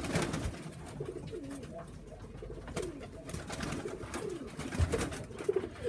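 Tippler pigeons cooing in a loft, with repeated soft gliding calls and scattered short clicks and scuffs.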